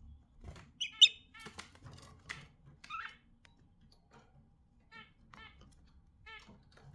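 Pet budgerigars chirping in short, scattered calls, the loudest a sharp burst about a second in, with a few light clicks among them.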